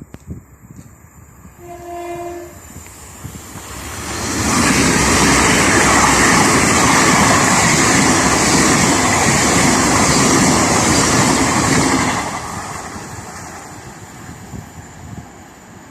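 A train sounds a brief horn note about two seconds in, then passes close by at speed, loud for about eight seconds before fading away.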